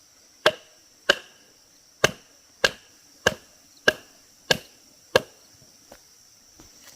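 Bamboo being chopped with a blade: eight sharp, evenly paced strikes about 0.6 s apart, each with a short ring, then a faint last tap. A steady high insect drone runs underneath.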